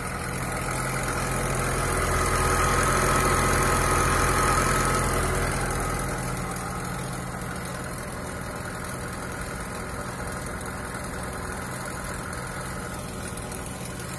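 Lada Niva 21214M's 1.7-litre four-cylinder engine running at a cold start with a rattle from the timing chain, louder for a few seconds about two seconds in, then settling. The rattle is the sign of a broken chain damper letting the timing chain run slack.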